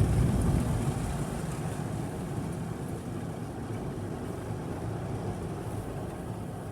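Washworld Profile Max in-bay automatic car wash working on the car, heard from inside the cabin: a steady low rumble of the brushes and spray on the body. It swells right at the start, then eases off slowly.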